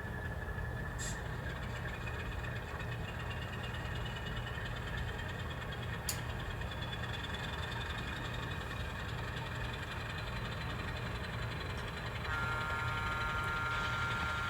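N scale model diesel locomotive running on the layout, its engine sound a steady low rumble. A set of steady higher tones comes in about twelve seconds in.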